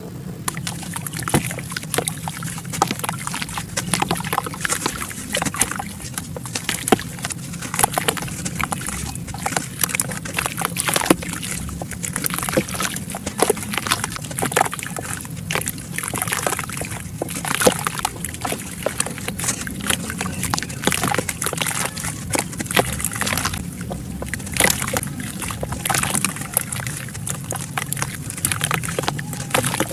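Soft dirt crumbling, dry and wet, in a continuous run of crunchy crackles with wet sloshing.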